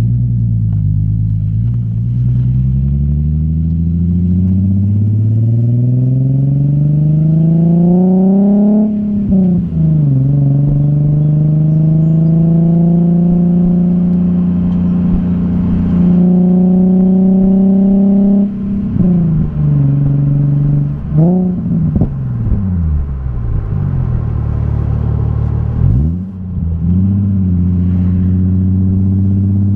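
Nissan 370Z's VQ37VHR V6 running through an ISR single-exit GT exhaust with stock catalytic converters. The engine pulls up through a gear for about nine seconds with a rising pitch, drops at a shift and holds a steady hum. Later it dips and climbs again several times in quick succession, then settles.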